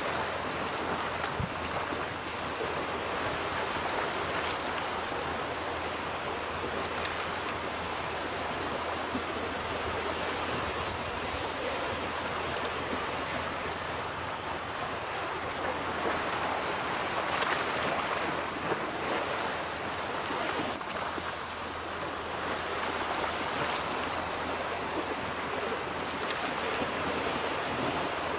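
Ocean surf: waves breaking and washing onto a beach in a steady rush that swells and eases now and then.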